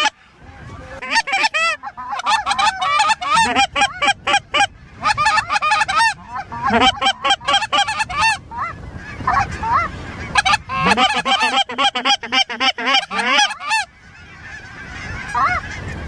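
Goose honking and clucking: many rapid, overlapping notes in bursts separated by short pauses, thinning to a few scattered honks near the end as geese work toward the hunters before the shot.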